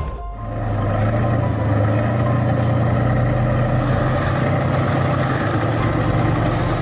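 Large tractor engine running at a steady speed, a constant low note without revving.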